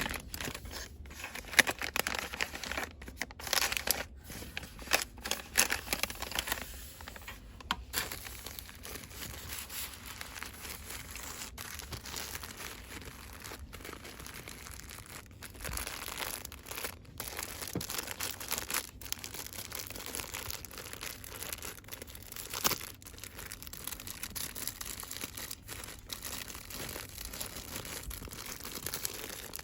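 Cosmetics packaging crinkled and rustled by hand in quick, dense bursts with sharp crackles for the first several seconds, then a softer, steady rustling with scattered clicks.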